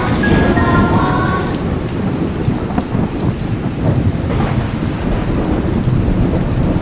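Steady heavy rain with a deep, continuous rumble of thunder.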